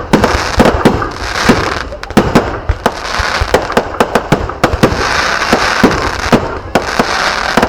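Fireworks going off: a rapid, irregular barrage of sharp bangs, several a second, over a continuous crackling hiss.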